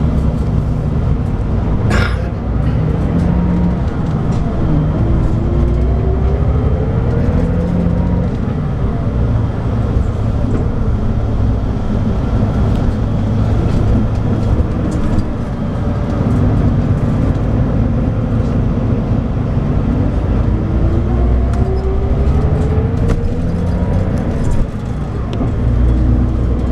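Scania DSC9 diesel engine of a Scania K340IB coach pulling under way. Its note climbs twice as the bus accelerates and drops back after each climb, as it would at a gear change. A sharp click comes about two seconds in.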